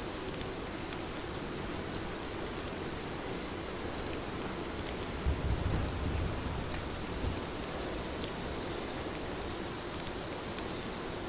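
Heavy rain falling steadily, with a short low rumble of thunder about five seconds in that fades after a couple of seconds.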